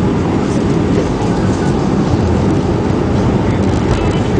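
Steady low rumble of engine and airflow noise inside the cabin of an Airbus A319 airliner on approach, with the flaps extended.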